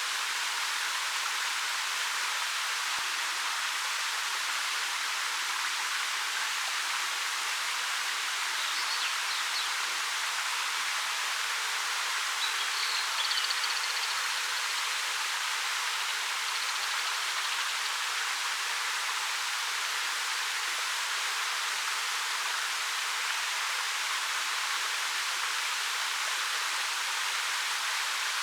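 Ariake Falls, a 13 m waterfall, pouring down a black rock face with a steady, even rushing hiss. A couple of faint high chirps come through near the middle.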